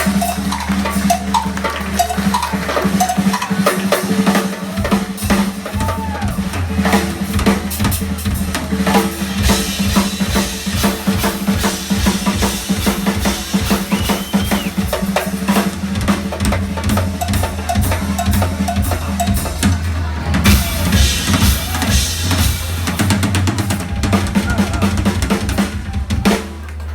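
Live rock drum kit played solo: rapid snare, bass drum and rimshot hits with rolls, over a held low bass tone.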